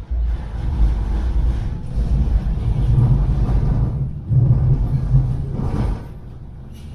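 Manchester Metrolink tram (Bombardier M5000) running, a heavy low rumble of its wheels on the rails and its traction motors. The rumble eases about six seconds in.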